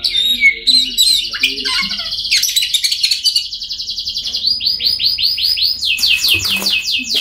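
Oriental magpie-robin singing a loud, varied song of whistles and trills, which about halfway through turns into a fast run of repeated sweeping notes, about four or five a second.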